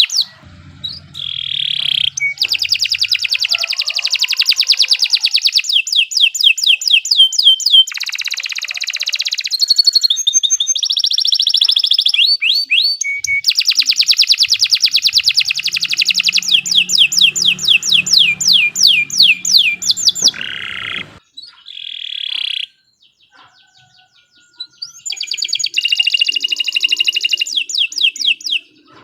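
Domestic canary singing long rolling song phrases: rapid trills of high repeated notes running on for several seconds at a time with short breaks. There is a lull of a few seconds near the end before one last trill.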